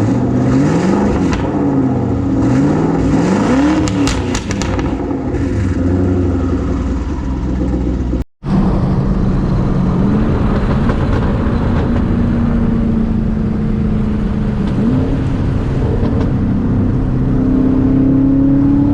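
Twin-turbo Ford Mustang Boss 302's V8 engine revving, its pitch rising and falling several times in quick succession over the first few seconds. The sound drops out briefly about eight seconds in, then the engine runs steadily with a few gradual rises in pitch.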